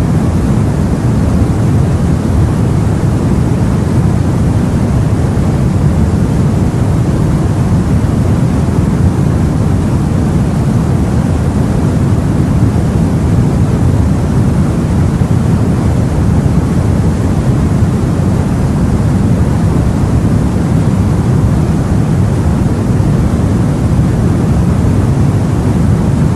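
Steady, low-pitched rumbling noise of the sea aboard a boat, unbroken and without distinct wave surges.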